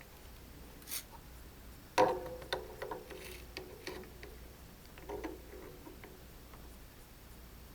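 Scattered light clicks and taps of tools and a workpiece being handled on a bench, with one sharper knock about two seconds in that rings briefly.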